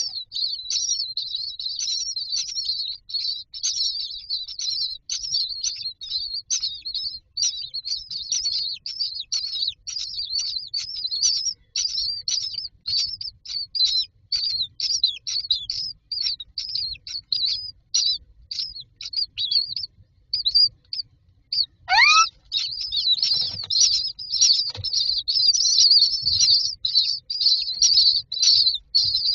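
Common myna nestlings chirping in a rapid, continuous high-pitched chatter, the begging calls of chicks waiting to be fed. The chatter thins out for a moment, then a single call rising in pitch comes about two-thirds of the way in, and the chicks' chirping returns louder.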